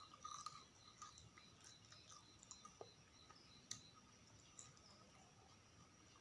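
Faint, scattered clicks of close-miked chewing and mouth sounds from eating sausages and fries, a few sharper ticks standing out, the clearest nearly four seconds in.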